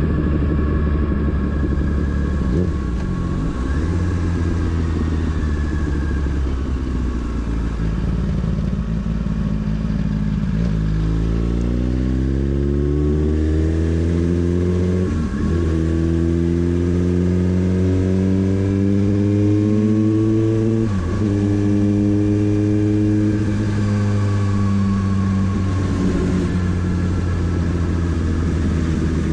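Motorcycle engine running steadily, then accelerating about ten seconds in: the pitch climbs in each gear, broken by two quick upshifts, before settling to a steady cruise near the end.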